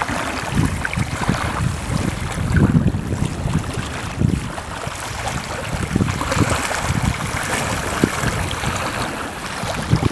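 Wind buffeting the microphone: a loud, rough low rumble that rises and falls in gusts.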